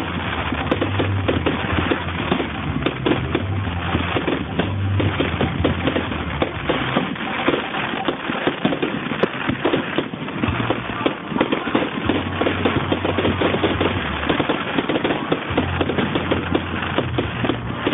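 Fireworks going off in a dense, rapid crackling and popping that never lets up, picked up on an old phone's microphone.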